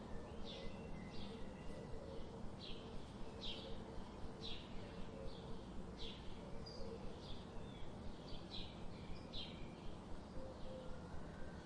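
Small birds chirping, short repeated calls, over a steady low background hum, with a soft even pulse about three times a second.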